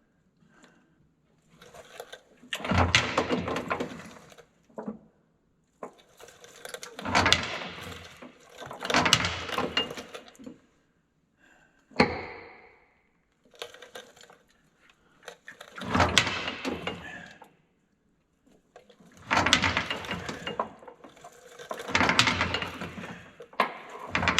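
Steel roller drive chain in a skid steer's chain case clanking and rattling against the metal case as it is worked through by hand, in five bursts of clatter with quiet gaps between. About halfway through there is one sharp metallic knock with a brief ring.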